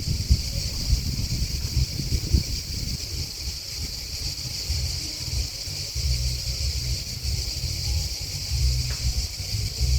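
Grasshoppers and crickets chirping in a steady, high-pitched, unbroken chorus, with an uneven low rumble underneath that swells and fades.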